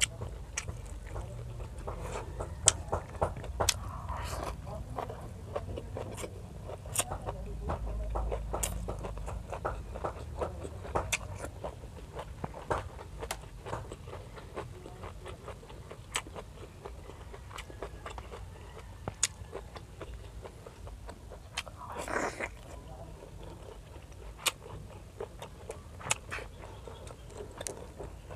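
Close-miked chewing of fresh seaweed and grilled squid: many irregular sharp crunchy snaps and wet mouth clicks.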